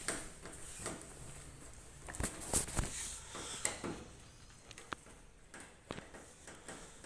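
Irregular clanks and knocks of metal parts and tools being handled while a front-load washing machine is taken apart, with the loudest knocks grouped about two and a half seconds in.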